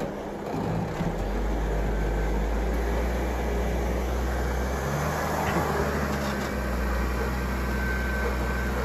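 Jeep Wrangler Rubicon's engine running at low revs as the Jeep crawls up a steep rock slot, a steady low drone that eases off briefly around five seconds in.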